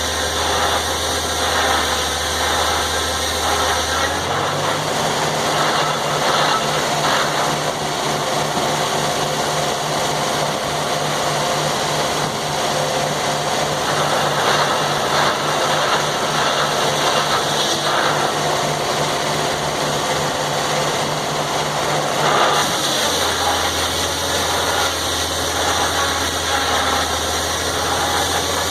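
Sawmill engine running steadily. Its note steps up about four seconds in and drops back to the lower note about twenty-three seconds in.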